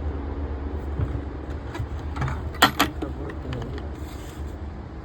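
Tractor engine running steadily, with two sharp clanks in quick succession about two and a half seconds in.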